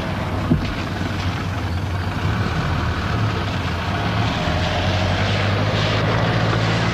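Car engine of a Mercedes-Benz W123 saloon running at low speed as the car pulls across the yard, a steady hum that grows slightly louder as it nears. A short knock sounds about half a second in.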